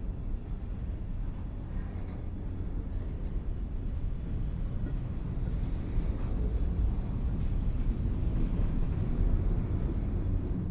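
Low, steady rumble of a train, getting a little louder about halfway through.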